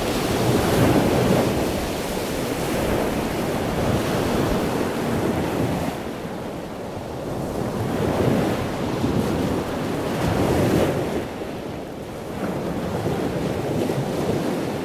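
Ocean waves washing, a rushing sound that swells and ebbs every few seconds.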